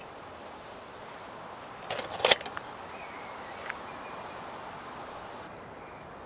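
Wind blowing through the woodland as a steady rush, with a quick cluster of sharp clicks and knocks about two seconds in and a single click a little over a second later.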